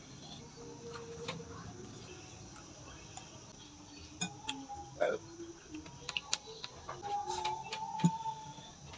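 Eating close to the microphone: chewing and crunching, with a run of sharp clicks and crackles from about four seconds in.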